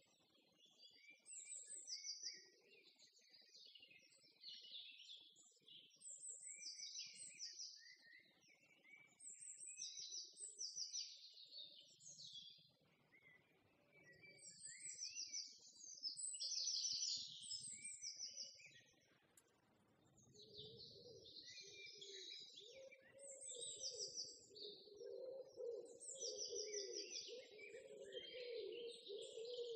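Songbirds chirping and trilling in short repeated phrases. A lower, wavering tone joins about two-thirds of the way in.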